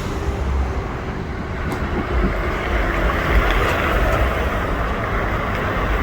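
A vehicle driving: a steady low rumble of engine and tyres under a rushing noise.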